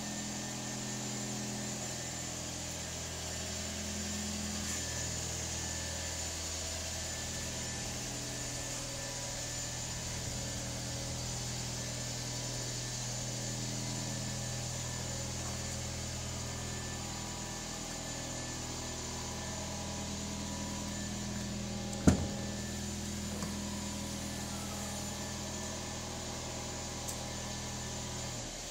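Toyota Yaris Hybrid's 1.5-litre four-cylinder petrol engine idling steadily. A single sharp clack about three-quarters of the way through fits the tailgate being opened.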